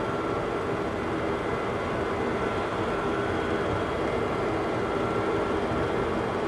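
Boeing 737-200's Pratt & Whitney JT8D jet engines running, heard from inside the cockpit as a steady rumbling noise with a faint steady whine.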